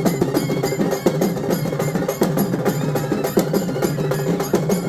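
Music of fast, dense drumming with pitched percussion ringing over it.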